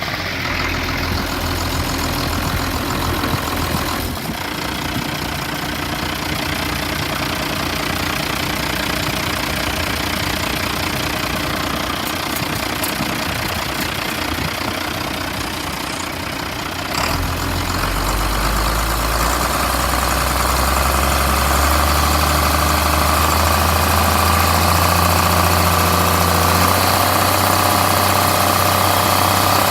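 International DT360 inline-six diesel engine running steadily at idle, with a diesel knock; it gets louder and deeper from about halfway through.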